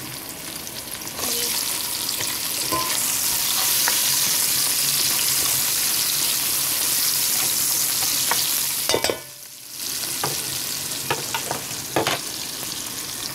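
Sliced onion and garlic sizzling in hot oil and mixed masala in a metal pan while being stirred with a spatula. The sizzle swells about a second in and drops away briefly after about nine seconds, and a few sharp clicks of the spatula against the pan come near the end.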